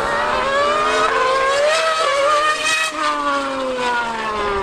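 Engines of a Formula 1 car and a Yamaha R1M superbike at high revs in a drag race: the pitch climbs for about three seconds, then drops sharply and keeps falling as they pass.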